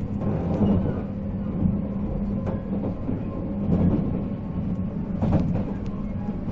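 Sound inside a 485-series express electric train (MT54 traction motors): a steady hum with scattered clicks and knocks, and one louder knock about five seconds in.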